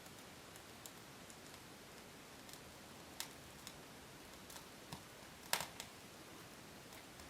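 Small fire just lit in a stove, with a paraffin-and-wood firelighter cube on kindling, crackling faintly: a few scattered pops over a faint hiss, the loudest about five and a half seconds in.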